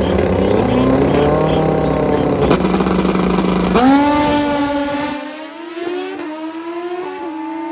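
Street-tire drag-racing motorcycle accelerating hard down the strip, its engine note climbing steadily and dipping briefly at each quick gear change, then fading a little as it pulls away.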